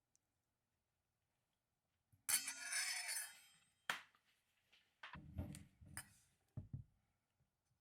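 Tableware being handled: a ringing clink of glass or metal about two seconds in, a sharp click near the middle, then a few duller knocks near the end.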